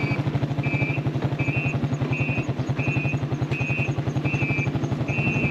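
Motorcycle engine running steadily with a fast, even firing pulse, while a short two-tone electronic beep repeats about every three-quarters of a second.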